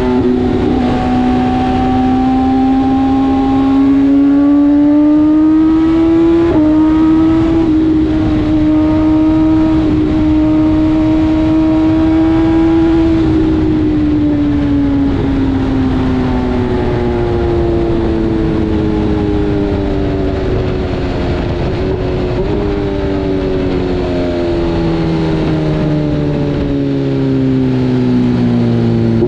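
BMW S1000RR inline-four engine running under way, its pitch climbing slowly, jumping up once about six seconds in, then falling gradually through the second half as the bike slows. A steady low rumble of wind and road noise runs underneath.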